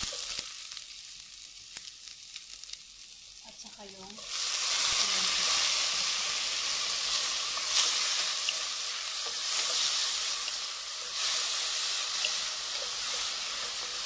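Chopped garlic and onion sizzling in hot oil in a metal pot, stirred with a wooden spoon. About four seconds in the sizzle turns suddenly much louder and stays so as diced tomatoes go into the hot oil.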